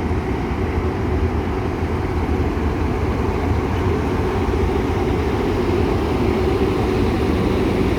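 Freight train pulling out behind an electric locomotive and a diesel-electric locomotive: a steady rumble with a constant humming tone, slowly growing louder.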